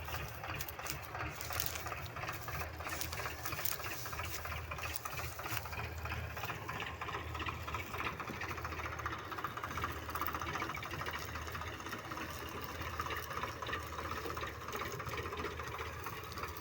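Tractor diesel engine running steadily under work, a low drone with a fast, even rhythmic clatter.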